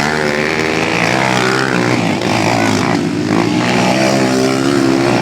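Motocross motorcycle engines running and revving, their pitch rising and falling continuously.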